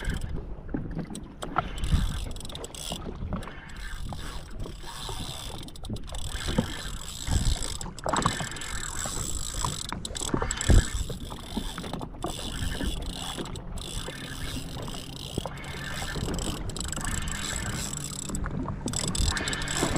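Water slapping against the hull of a drifting jet ski, with wind on the microphone and irregular knocks and clicks of fishing gear being handled on the ski.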